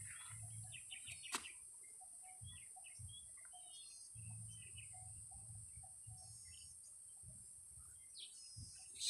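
Faint birds chirping, short scattered calls over a steady high hiss, with one faint click about a second and a half in.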